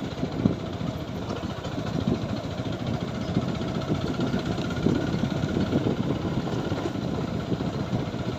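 TVS Apache 4V motorcycle's single-cylinder engine running steadily during a ride over a rough road.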